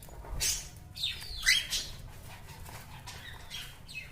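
Zebra finches chirping: several short, high calls, the loudest one sliding down in pitch about one and a half seconds in.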